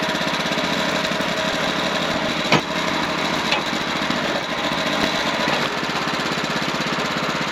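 Wood-Mizer portable sawmill's engine running steadily, with a short sharp click about two and a half seconds in.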